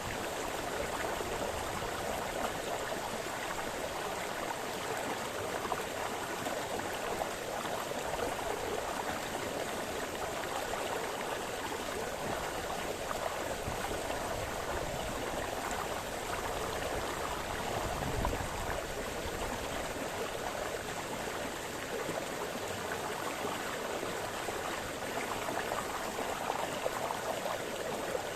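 Small forest brook splashing and babbling, a steady, even rush of running water.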